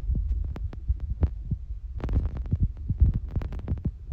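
Fetal heart monitor's Doppler speaker giving a fast pulsing heartbeat over a low hum, with short thumps and clicks bunching up about two seconds in.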